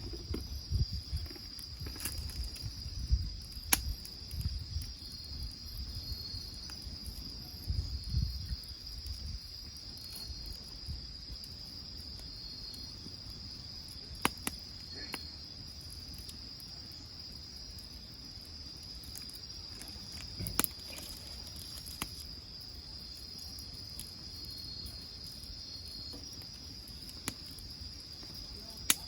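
Insects trilling steadily at a high pitch, with another chirping in short repeated pulses, over a wood fire that gives a few sharp pops. A low rumble comes and goes in the first third.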